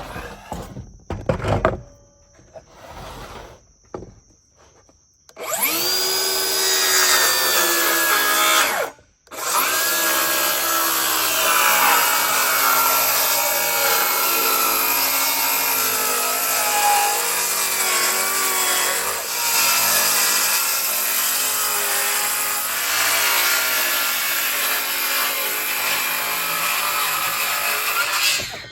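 Circular saw cutting through a wooden board, with a blade that is thought to be nearly worn out. A few knocks of boards being handled come first. The saw starts about five seconds in, cuts out briefly a few seconds later, then runs steadily through a long cut and stops right at the end.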